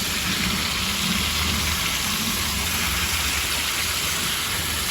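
Marinated chicken pieces frying in oil on a flat iron tawa over a low flame: a steady sizzle, with a faint low hum underneath.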